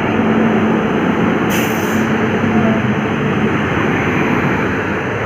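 Loud, steady rumble of a train running past at close range, with a low hum underneath. A brief hiss about one and a half seconds in.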